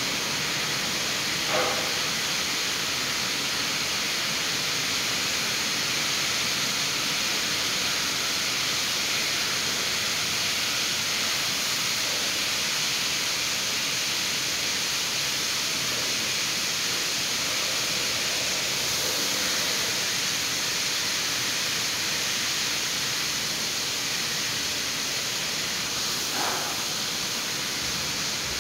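Heavy tropical rain pouring steadily, a dense even hiss of rain on wet ground and puddles. Two brief taps come through, about a second and a half in and near the end.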